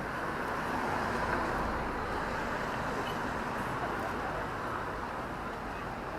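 Steady road traffic noise, swelling slightly about a second in as a vehicle passes.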